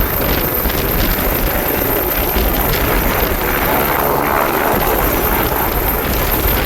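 Helicopter running loudly close by: a steady, heavy rotor and engine noise with a fast, even beat.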